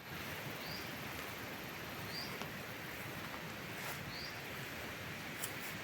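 A bird repeating one short, rising high call about every one and a half to two seconds over steady outdoor background noise, with a couple of faint clicks near the end.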